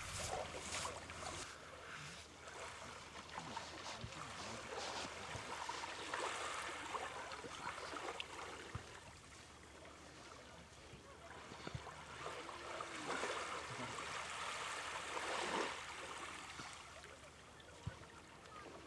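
Small sea waves washing onto a sandy beach, swelling and fading twice.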